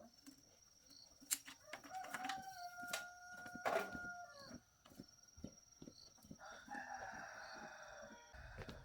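A rooster crowing: one long held call about two seconds in, then a rougher, harsher call near the end, over scattered light knocks and clicks.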